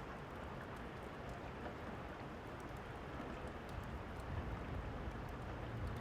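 Steady rain, with the small scattered crackles of a fireplace over it. A low rumble swells in the second half.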